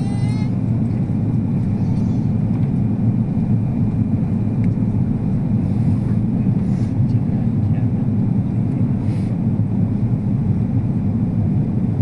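Airliner cabin noise: a steady, loud, low rumble of the jet engines and airflow heard from inside the passenger cabin during the arrival into Honolulu.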